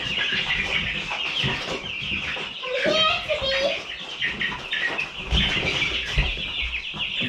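A flock of young chickens, about four weeks old, peeping continuously in many overlapping high chirps, with a few low thumps a little past halfway.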